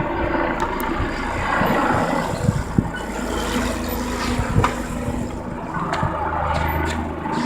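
A steady engine hum, with a few short knocks about two and a half and four and a half seconds in.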